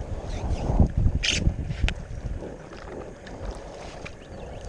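Kayak paddle dipping and splashing in the water, with one sharper splash about a second in, while wind rumbles on the microphone.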